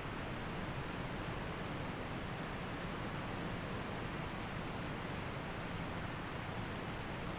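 Waterfall and mountain creek rushing in a steady, even roar of falling and flowing water.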